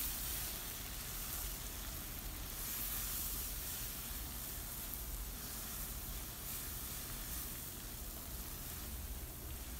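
Spinach and spices frying in oil in a pan as they are stirred, giving a steady soft sizzle.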